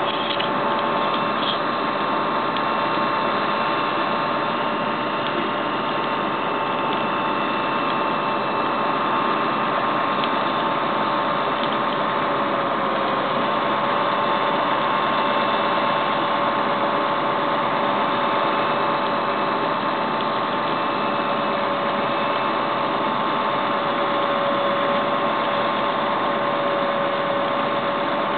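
Tow truck's engine running steadily with a continuous mechanical whine while the car is loaded; the whine's pitch dips slightly about halfway through.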